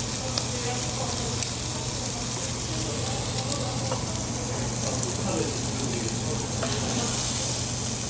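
Pork sizzling on a hot grill, a steady hiss with a few light crackles, over a steady low hum.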